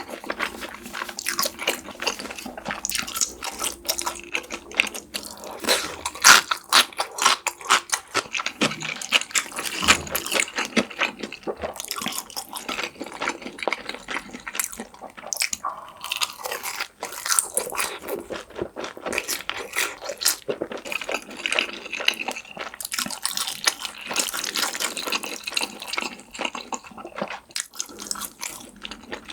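Close-miked eating of black bean noodles: a dense run of wet slurps, smacks and chewing clicks, with no pauses.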